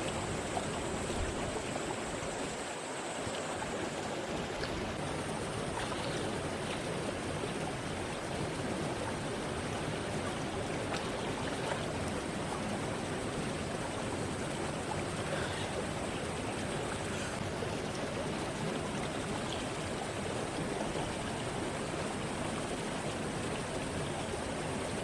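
River water flowing steadily through the Mossman Gorge, a constant even rush.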